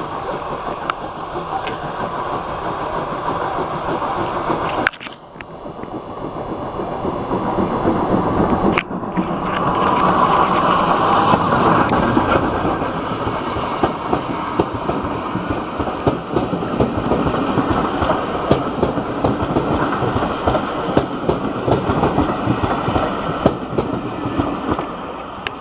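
Heritage railway train running along the line: a steady rumble with the wheels clicking over the rail joints. The sound breaks off sharply about five seconds in, and changes again near nine seconds.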